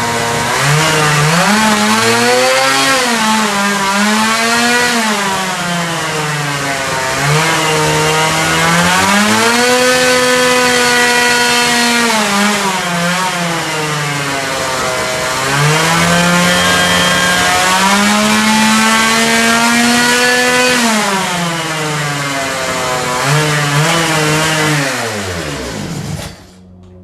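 An engine being revved over and over: the pitch climbs, holds for a few seconds and drops back several times. Near the end the engine winds down and stops.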